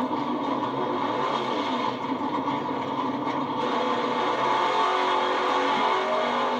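Vehicle engines running in a steady, continuous drone with several pitched engine tones.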